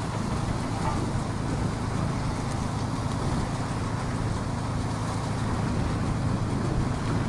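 Crane's engine running steadily, a low even drone.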